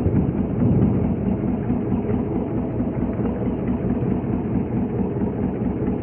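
Fishing boat's engine running steadily at a low, even speed.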